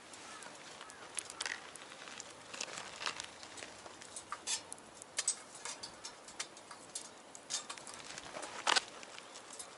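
Wood fire crackling in a small box stove: irregular sharp pops and snaps over a faint hiss, with one louder snap near the end.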